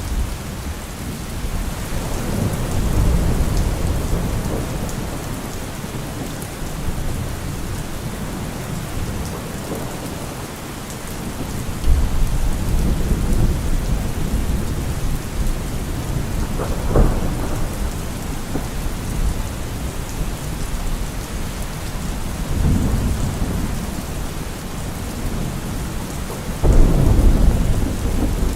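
Steady rain falling, with thunder rumbling again and again beneath it. Sharper thunder rolls rise about twelve seconds in and near the end, and a short crack comes about seventeen seconds in.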